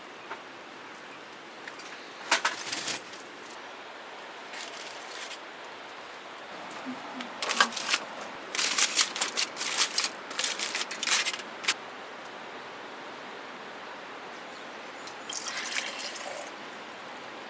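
Steady rush of stream water running through the valley, with several short bursts of sharp clicks and clatter over it, the longest in the middle.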